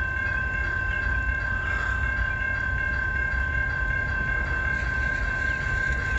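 Railroad crossing warning bell ringing steadily as the gates stay down, over a low rumble.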